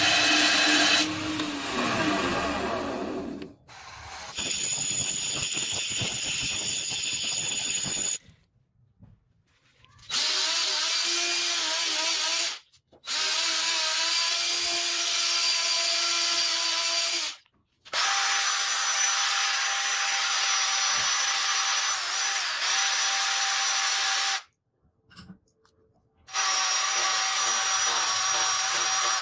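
Small power tool motor running with a steady whine in bursts of several seconds. It cuts out and starts again about five times.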